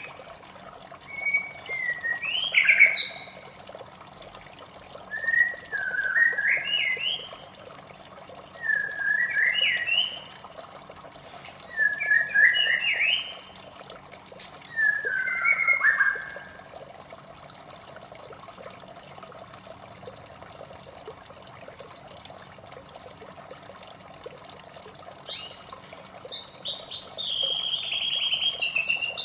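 White-rumped shama singing: five short whistled phrases a couple of seconds apart, each sliding up and down, then a pause of several seconds before a quicker run of notes near the end. Running water trickles steadily underneath.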